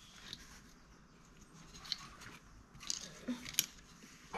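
Faint handling of small parts: a few short, sharp clicks and taps, about three of them in the second half.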